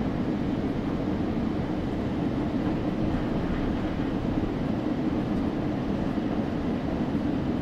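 Steady low rumble of a moving passenger train, even and unbroken.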